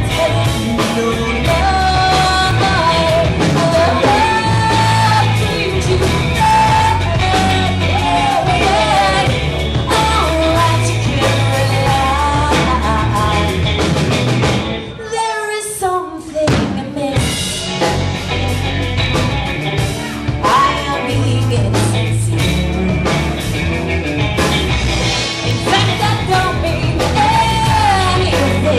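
Live rock band playing with singing over drums, bass and guitar. About halfway through, the band drops out for a moment, leaving a short sung phrase, then comes back in.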